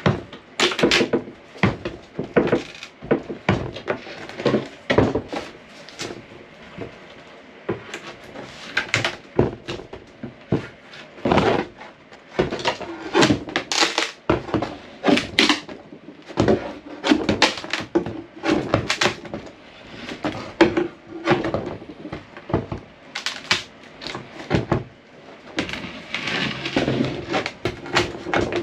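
Hand work on boat fittings: irregular knocks, taps and clatter of tools and parts being handled, one sharp hit after another with no steady rhythm.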